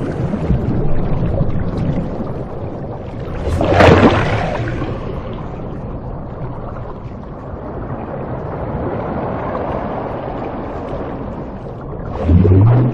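Deep-sea underwater recording: a continuous rushing, watery noise that swells loudly about four seconds in and again near the end.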